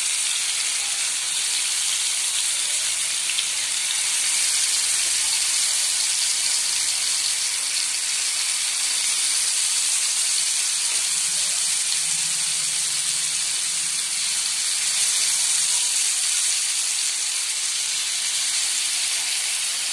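Curd-marinated chicken pieces sizzling steadily in hot oil in a nonstick frying pan.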